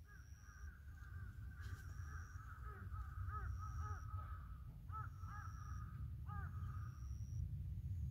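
Birds calling in the distance: a string of short, repeated harsh calls that fades out about a second before the end, with a faint high peep repeating about once a second, over a steady low rumble.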